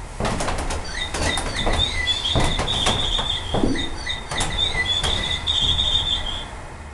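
Birdsong: short rising chirps and two long, fast trills, mixed with several knocks of footsteps on wooden floorboards.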